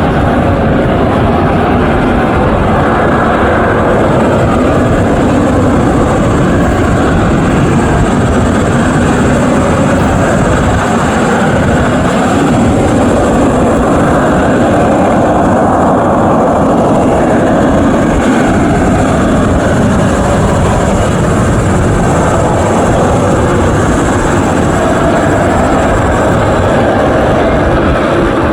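AV-8B Harrier's Rolls-Royce Pegasus turbofan running loud and steady, a jet rumble with a thin high whine over it that swells and eases slowly without a break.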